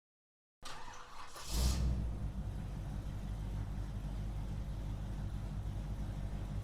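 Car engine starting: it catches with a brief rev about a second and a half in, then settles into a steady low idle.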